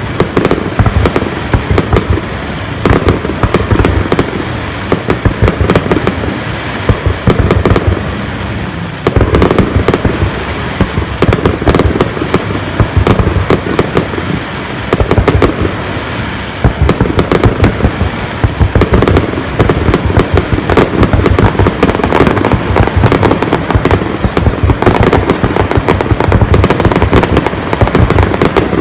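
Fireworks display going off continuously: dense, rapid bangs and crackling from bursting aerial shells with no pause.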